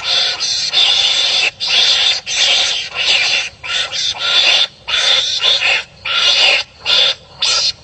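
Rapid series of rasping, barking animal calls from animals fighting with one another: about nine calls, each lasting up to a second, with short gaps between them.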